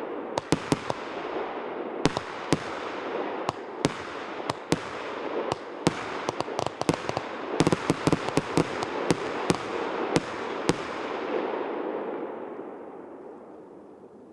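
Consumer fireworks battery (multi-shot cake) firing: a quick string of sharp bangs over a continuous crackle. The shots stop about eleven seconds in, and the crackle dies away near the end.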